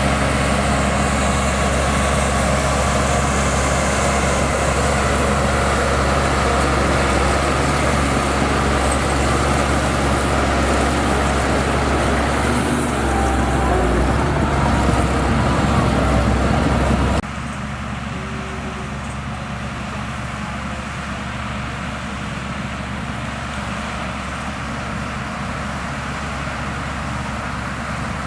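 Heavy diesel earthmoving machinery running steadily, the sound of a bulldozer or dump truck engine at work. About 17 seconds in it drops abruptly to a quieter, steady engine hum.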